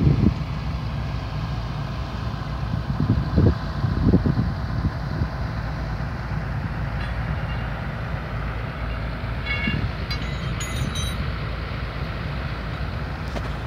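Sany SR150C rotary drilling rig travelling on its crawler tracks: a steady low diesel engine rumble with a few low thumps in the first few seconds. A short run of high squeaks comes about ten seconds in.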